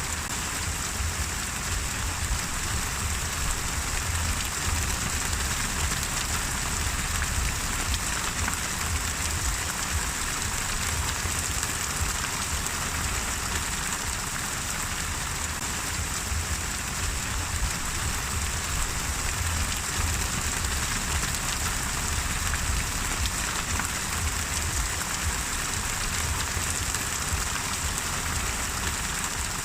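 Steady rain falling and pattering on surfaces, an even hiss with faint scattered drop ticks and a low rumble underneath.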